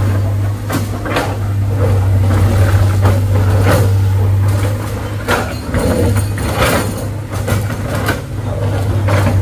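Heavy diesel engine running steadily at low revs, with scattered knocks and clatter over it.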